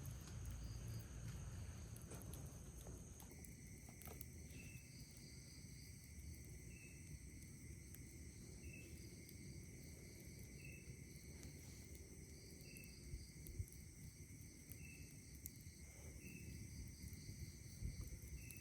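Faint night insects: crickets trilling steadily at high pitch, with a second steady buzzing tone joining about three seconds in and a short chirp repeating about every two seconds. A low rumble sits underneath, with a couple of soft pops late on.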